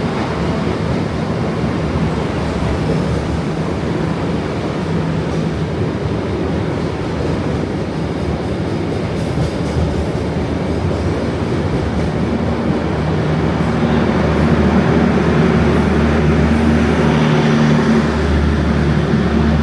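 A diesel train engine running steadily at a station: a loud continuous drone with a low hum, growing a little louder in the second half.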